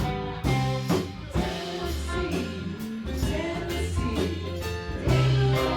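Live band playing blues-rock, with electric guitar, bass and drum kit, and a singer coming in partway through.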